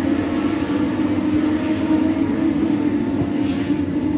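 Racing motorcycle engines at the circuit, heard as a steady, loud drone.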